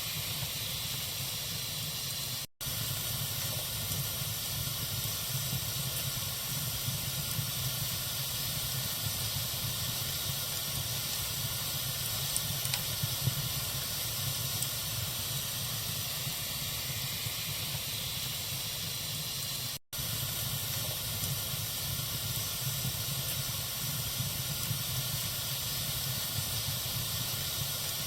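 Campfire burning with a steady hiss and faint scattered crackles. The sound cuts out for an instant twice, about two and a half seconds in and again near twenty seconds.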